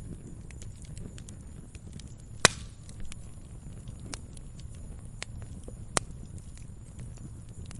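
Wood fire burning in a fireplace: a low steady rumble of flame with scattered crackles and sharp pops, the loudest pops about two and a half seconds in and again at about six seconds.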